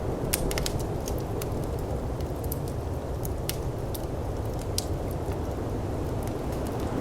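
Wood fire crackling in a firepit, with sharp snaps at irregular intervals and a quick cluster of them in the first second, over a steady low rush of snowstorm wind.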